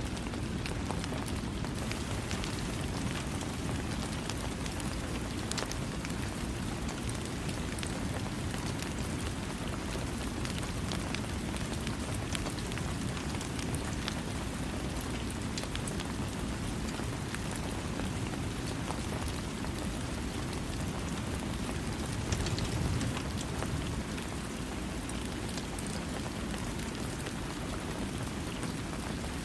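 Steady rain falling, a dense even patter with scattered louder drops, heavy in the low end. It swells briefly about 22 seconds in.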